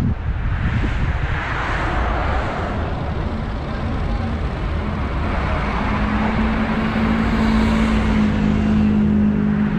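Car driving on the road: steady tyre and wind noise with a low engine drone that grows stronger about six seconds in.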